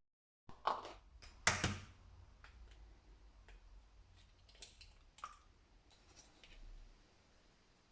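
Faint handling sounds indoors: a few light knocks and clicks of small objects being picked up and set down, two louder ones in the first couple of seconds, then scattered soft ticks.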